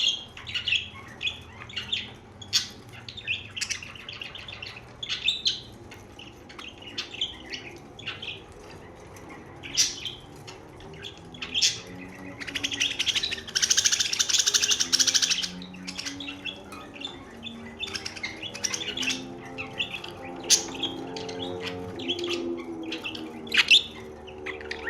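Pet budgerigars chirping in short, repeated calls. Near the middle comes a loud, rapid chattering warble lasting about three seconds.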